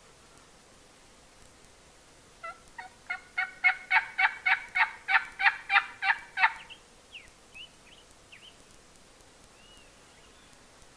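Turkey calling: a fast run of about eighteen yelping notes, four to five a second, growing louder and then stopping abruptly. A few faint songbird chirps follow.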